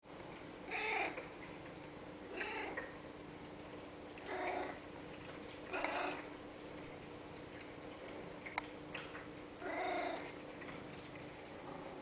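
A domestic cat meowing five times in short calls, a second or more apart, with a longer pause before the last, over a steady faint hum. A single sharp click sounds about two-thirds of the way through.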